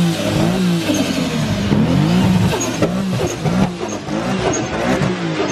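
Car engine revving up and down over and over, its pitch rising and falling several times a second, over a dense background din.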